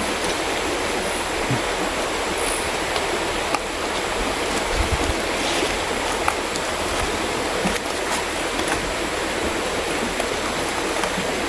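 Mountain river water rushing steadily over rocks, with a few faint clicks.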